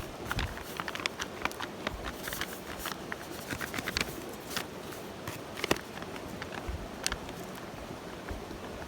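Wood fire crackling in a small bicycle-spoke fire pit, with irregular sharp snaps and pops over a steady hiss.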